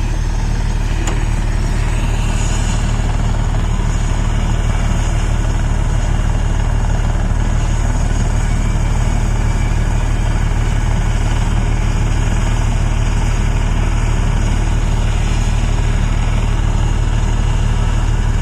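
Helicopter running steadily, a loud, unchanging low rotor and engine sound.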